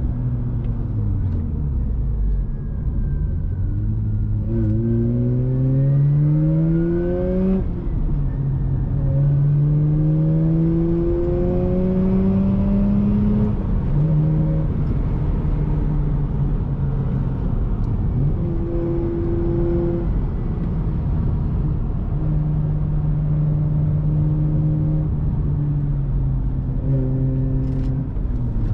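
Mazda RX-8's two-rotor Wankel rotary engine through an aftermarket RE Amemiya exhaust, accelerating hard. Its pitch climbs steeply and drops sharply at upshifts about eight and thirteen seconds in, then holds steadier with short lifts and a quick rev blip near the end.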